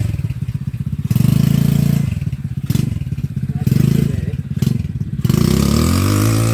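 Small engine of an RC quad bike running and revving up and down in repeated surges, its pitch gliding down near the end.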